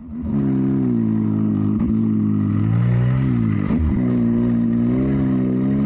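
An engine running steadily at a constant pitch, with its note dipping and recovering briefly about three times.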